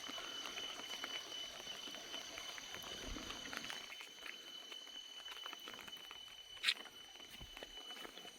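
Faint outdoor hillside ambience: a steady high-pitched whine over a soft hiss, with scattered light clicks and one sharper click near the end.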